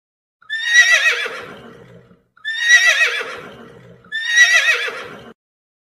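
A horse whinnying three times in a row, each one about a second and a half long with a shaking, quavering pitch. The three whinnies look alike, the same call repeated.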